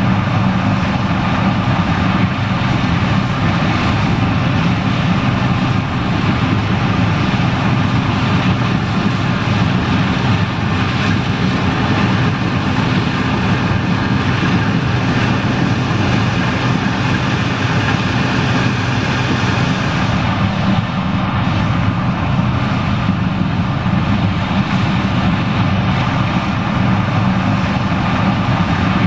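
John Deere 9870STS combine running steadily while harvesting corn: a constant heavy engine drone with a few steady higher machine tones above it, unchanging throughout.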